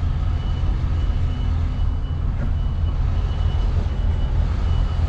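MAN truck's diesel engine running steadily while reversing, with the reversing alarm giving evenly spaced high beeps a little more than once a second.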